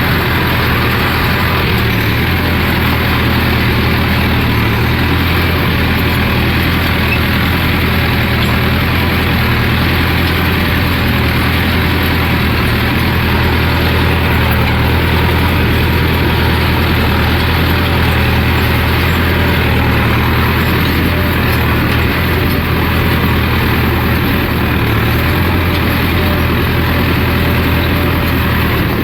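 Massey Ferguson 241 tractor's diesel engine running steadily at a constant speed while working a land leveller across the field.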